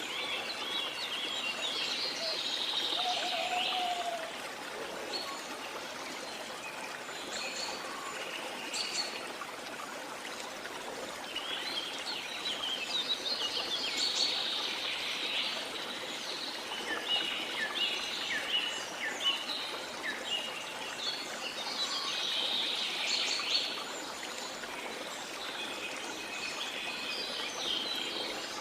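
Waterfall rushing as a steady hiss, with tropical rainforest birds singing and chirping over it in several bouts, busiest around halfway through and again near the end.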